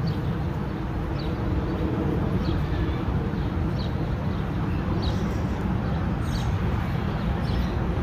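A small bird repeating a short, falling chirp about once a second, over a loud, steady low rumble.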